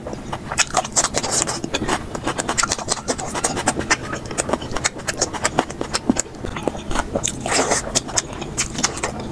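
Eating sounds at double speed: rapid wet chewing, smacking and clicking as curry and rice are eaten, with many quick clicks throughout.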